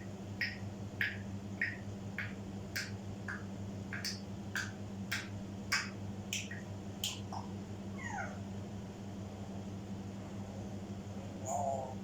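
African grey parrot giving a run of short, sharp chirps about twice a second, then a couple of falling whistles, with a brief lower warble near the end. A steady low hum runs underneath.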